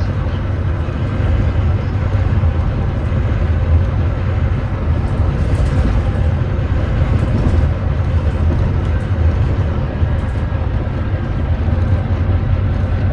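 Volvo D9B 9.3-litre six-cylinder diesel engine of a Volvo B9TL double-decker bus running steadily under way, a loud low drone; the engine is one that the recording labels as misfiring.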